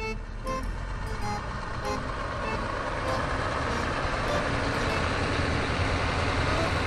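Truck engine noise, a steady low rumble that grows gradually louder, with short tune notes fading out over the first couple of seconds.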